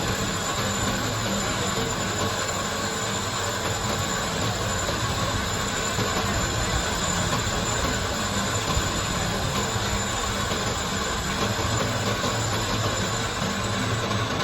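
Workshop machine running steadily: a continuous, even mechanical noise with no pauses or changes.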